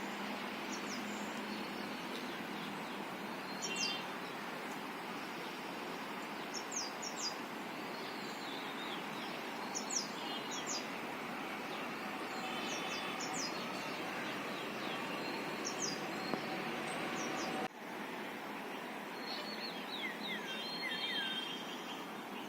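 Outdoor ambience of birds: short, high chirps and calls of small birds come every second or two over a steady background hiss.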